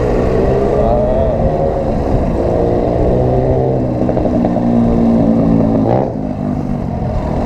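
Motorcycle engine running while riding, with wind rumble on the microphone; the engine's pitch rises and falls with the throttle, then drops away about six seconds in as the revs come off.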